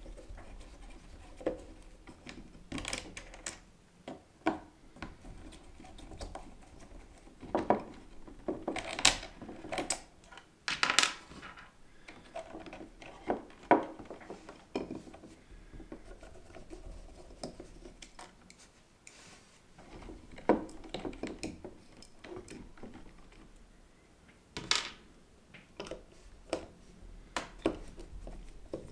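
Screws being undone with a screwdriver to free the weight from an LGB model locomotive: scattered clicks, clinks and scrapes of the tool, small screws and parts being handled, with sharper knocks about 9, 11, 14, 20 and 25 seconds in.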